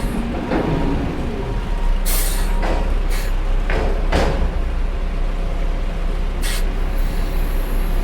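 Peterbilt 520 garbage truck's diesel engine running steadily, with several short hisses of air coming and going.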